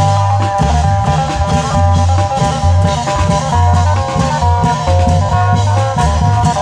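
Isan long-drum (klong yao) band music: a plucked-string melody of held, stepping notes over a steady pulse of low drum beats.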